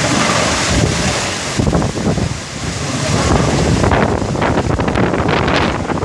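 Heavy rain pouring down, with gusts of wind buffeting the microphone.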